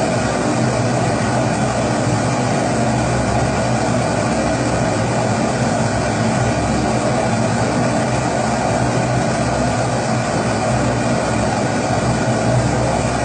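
Pressurised kerosene stove (primus-type babour) burning: a steady, unbroken rushing noise from the burner flame.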